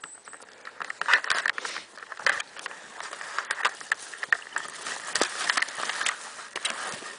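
Irregular crackling and rustling of moss, dry twigs and forest litter being disturbed.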